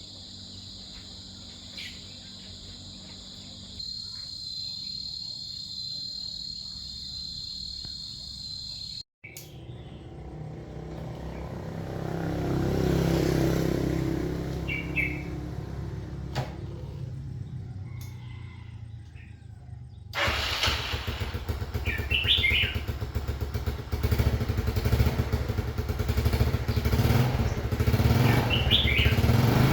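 A small engine running steadily, with short bird chirps now and then; the sound breaks off abruptly twice and gets louder after the second break.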